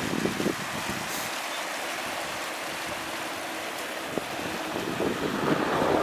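Mountain stream rushing over rocks, a steady wash of water noise, with wind buffeting the microphone. It swells slightly near the end.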